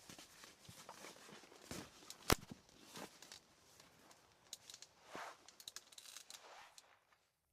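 Rustling and handling noises with scattered clicks, one sharp click a little over two seconds in; the sound cuts off abruptly near the end.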